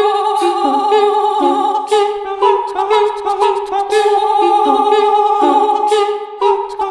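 A cappella voices singing a melody over held chords, the notes stepping from one pitch to the next, with short vocal-percussion clicks now and then.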